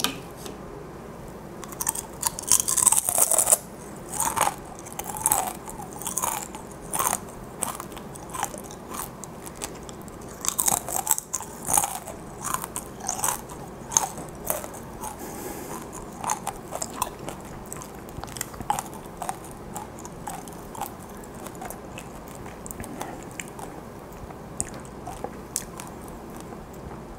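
Crunching and chewing of gochu-twigak, dried chili peppers fried crisp and sugared: sharp, crisp crunches with each bite, thickest about two seconds in and again around ten to fourteen seconds, then sparser, softer chewing.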